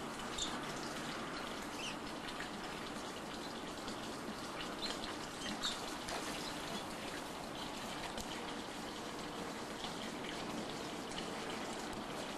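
Canaries giving scattered short, high chirps over a steady hiss.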